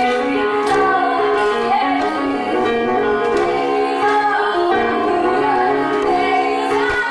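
Folk-jazz song: a woman singing held, melodic phrases over instrumental accompaniment.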